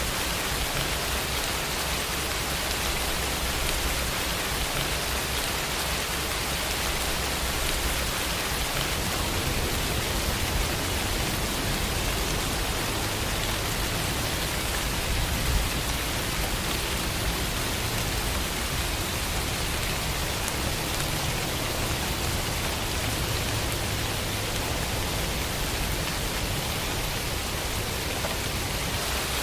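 Steady rain falling, a constant even hiss without pauses.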